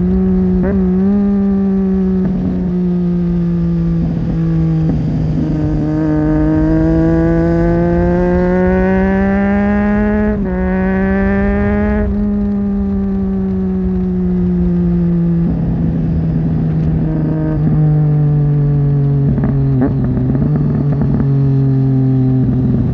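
2009 Triumph Street Triple 675's three-cylinder engine through a Leovince 3-2 exhaust with its dB-killer fitted, heard while riding. The revs climb, are briefly cut for a gear change about ten seconds in, climb again, then the throttle is rolled off and the engine note falls away.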